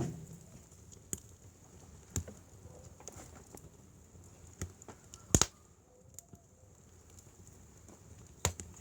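Wood fire crackling, with sharp scattered pops from the burning logs; the loudest is a double pop about halfway through.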